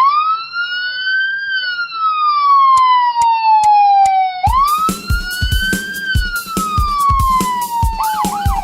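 Police siren sound effect wailing in two slow rising-and-falling sweeps. A drum-backed music track comes in about halfway through. Near the end the siren switches to a fast yelp of about four sweeps a second.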